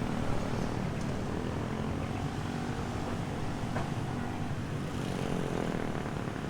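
A steady engine drone, with a faint pitch that rises slightly about five seconds in.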